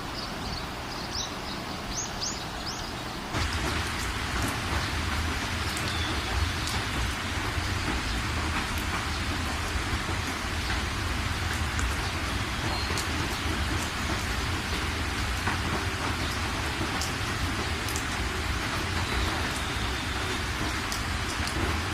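Steady rain with a few bird chirps. About three seconds in it switches abruptly to louder, heavier rain with a deep low rumble that holds steady.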